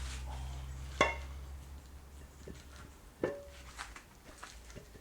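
Metal engine parts being handled: a sharp ringing metallic clink about a second in, then a few lighter knocks, over a low hum that fades out.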